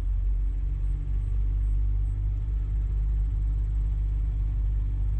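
Steady low engine rumble with a constant hum, like a vehicle engine idling close by, holding unchanged throughout.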